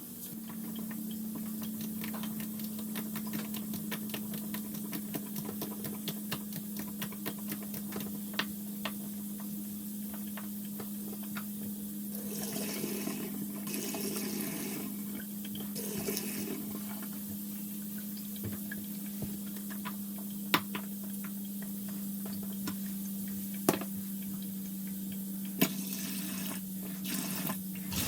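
Water running from a kitchen mixer tap over a steady low hum, with many small clicks and a few sharp knocks as the tap is worked on.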